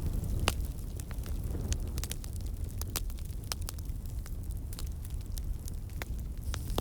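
Fireplace fire crackling: irregular sharp pops and snaps, several of them louder, over a steady low rumble of the flames.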